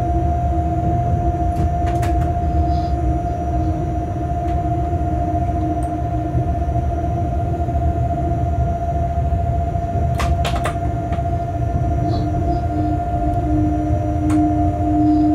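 Freight train running at speed, heard from the locomotive cab: a steady low rumble with two steady humming tones. A few sharp clicks stand out, with a close cluster about ten seconds in.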